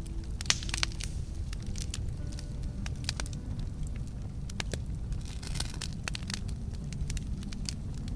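Campfire crackling: frequent sharp pops and snaps over a steady low rush of the burning fire, with one louder pop about half a second in.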